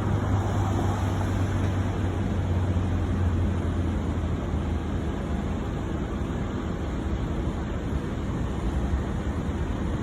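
Steady low rumble of jet aircraft engines, with a low hum that is strongest in the first few seconds and then fades.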